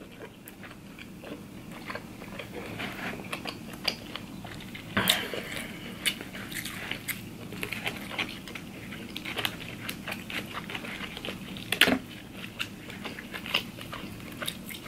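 Close-up wet chewing and mouth smacking while eating seafood, with a steady patter of small clicks and crackles and two louder sharp snaps about five and twelve seconds in.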